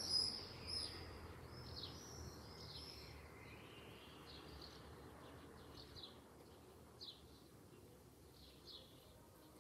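Small birds chirping: short, high, falling chirps, a quick loud cluster in the first second, then single fainter chirps about once a second, over a faint low background hum.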